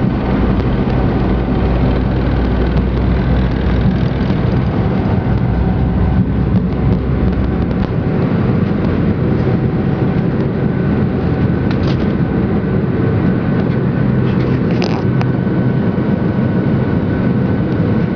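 Boeing 747-400 jet engines at takeoff power: a loud, steady engine noise with a deep rumble underneath that drops away about eight seconds in.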